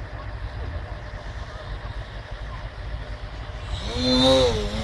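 Electric model airplane's brushless motor, with a steady low rumble underneath; near the end the whine swells up in pitch and falls back over about a second as the throttle is opened and closed.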